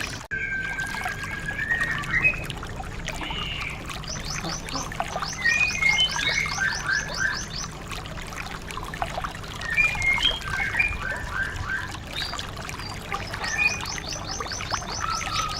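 White-eye (pleci) song: rapid high trills alternating with short whistled phrases, repeated in bouts, over a steady background of trickling water. The sound drops out briefly right at the start, like an edit in the recording.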